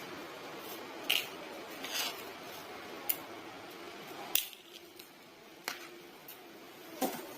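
About six sharp, unevenly spaced clicks and snips of small metal hand tools working thin wire and small parts on a bench.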